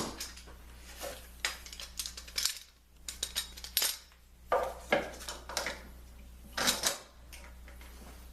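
Metal woodworking clamps clanking and clicking as they are handled and fitted to a lamination glue-up: a string of sharp, irregular metallic knocks, the loudest halfway through and again near the end.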